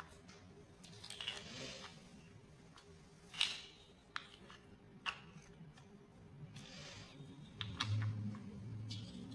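Small plastic building blocks being handled and snapped together: a few sharp clicks and short plastic rustles, spaced irregularly.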